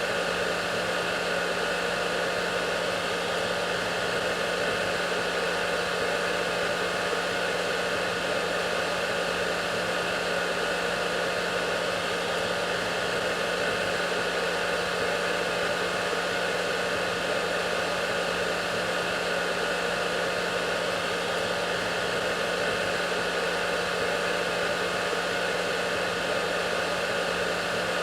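Hair dryer running steadily: an unchanging rush of blown air over a low, steady motor hum.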